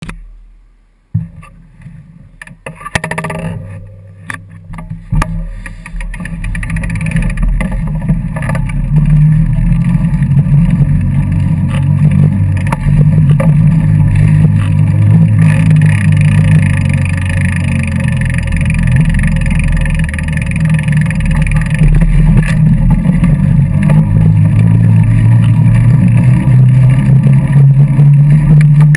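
Wind buffeting a GoPro's microphone on a moving bike: a loud low rumble that builds over the first several seconds as the bike gathers speed, then holds steady. A few clicks and knocks come in the first five seconds.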